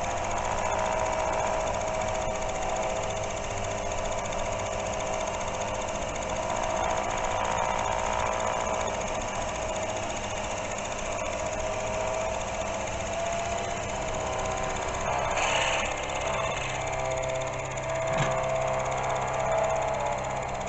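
Drill running steadily with a fixed whine, its bit boring a 4 mm hole straight through a steel block, with a couple of brief harsher moments near the end.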